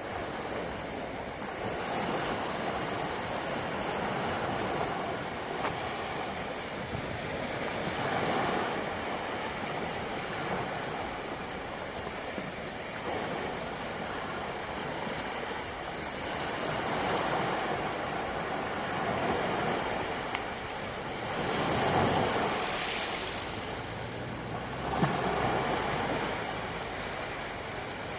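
Adriatic Sea waves washing ashore: a steady rush of surf that swells and falls back every few seconds, with the biggest surge about three quarters of the way through. A single short click comes soon after.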